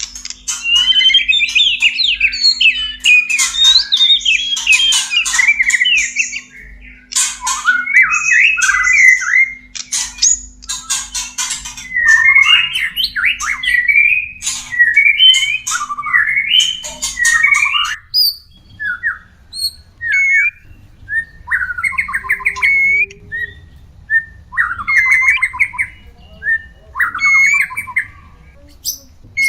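White-rumped shama (murai batu) giving mating calls: dense, rapid runs of whistles, squawky notes and sharp clicks, turning sparser, with short chattering phrases and pauses, about two-thirds of the way through.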